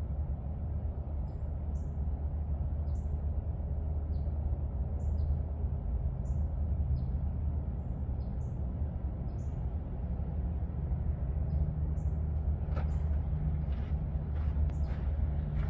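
Short high bird chirps, about one a second, over a steady low drone. A few sharp clicks and knocks come near the end.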